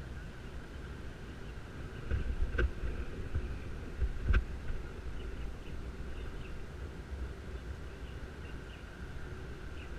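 Wind rumbling on a helmet-mounted camera's microphone while riding a bicycle, with the bike and loose helmet knocking over bumps, two sharp knocks standing out a couple of seconds apart.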